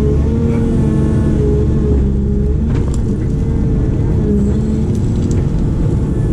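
Diesel engine of a heavy construction machine running steadily, with a pitched tone above the low rumble that wavers up and down slightly.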